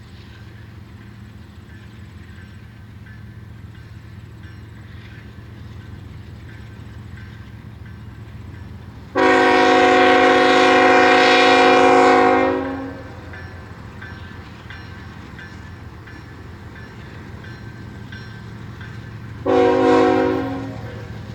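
Freight train locomotive horn sounding one long blast, then about ten seconds later a short one, each a chord of several tones, over the steady low rumble of the approaching train.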